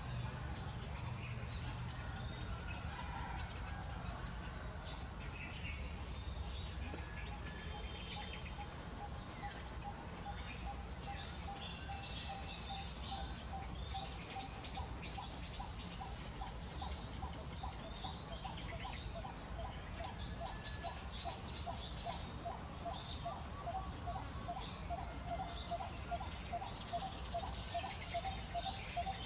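Birds calling: scattered high chirps, and one bird repeating a short mid-pitched note over and over at an even pace, starting a few seconds in and getting louder toward the end, over a steady low rumble.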